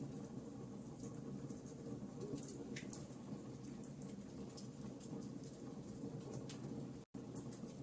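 Wood fire burning in a fireplace, crackling, with irregular small sharp pops over a steady low rumble of the flames. The sound cuts out completely for a split second about seven seconds in.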